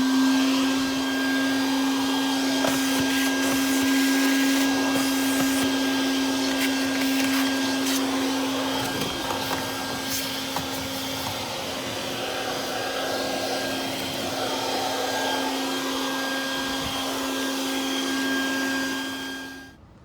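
Vacuum cleaner running with a steady hum and hiss, sucking dust out of a car's interior; its sound shifts as the nozzle moves, and it switches off suddenly near the end.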